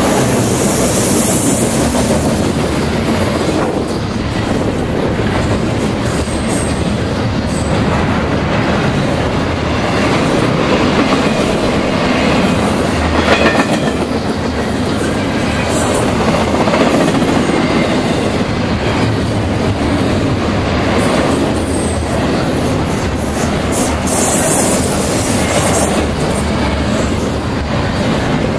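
Double-stacked container well cars of a Canadian Pacific intermodal freight train rolling past: a steady rumble of steel wheels on rail, with scattered clicks and a brief louder clatter about halfway through.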